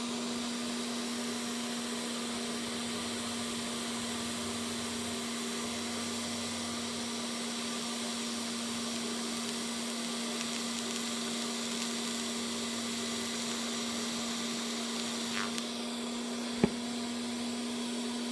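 TIG welding arc running with a steady hiss over a constant hum, as one short section of weld is laid. The arc stops about fifteen seconds in, and a single sharp click follows a second later.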